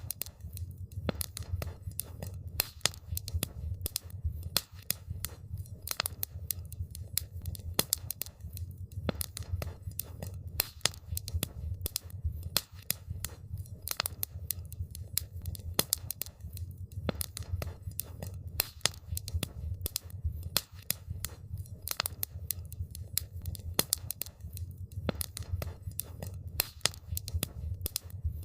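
Wood campfire crackling: a dense, irregular run of sharp pops and snaps from the burning wood over a steady low rumble of the flames.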